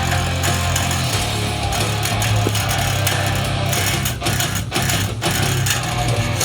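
Distorted electric guitar playing a heavy rock riff, with a few short stops about four to five seconds in.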